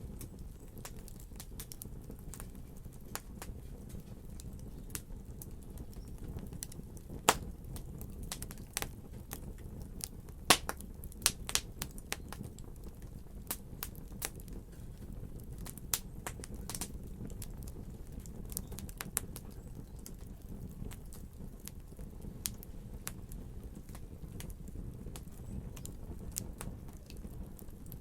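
Wood fire crackling in a fireplace: irregular sharp pops and snaps over a low steady rumble, with a few louder pops.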